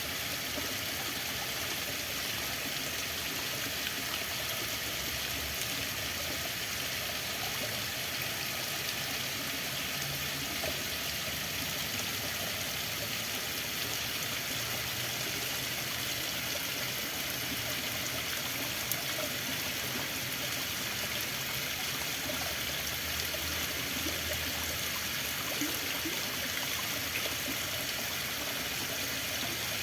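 Running water flowing steadily, an even, bright rush that does not change.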